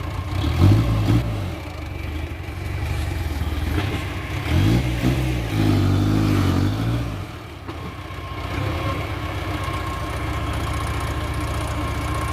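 Dump truck diesel engine revved up and down twice, briefly and then for a longer stretch in the middle, before settling to a steady idle.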